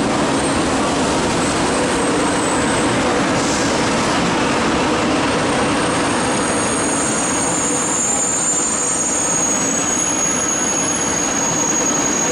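Ouigo TGV Duplex double-deck high-speed train running along the platform, a steady rumble of wheels and running gear, with a thin high-pitched wheel squeal coming in about halfway through.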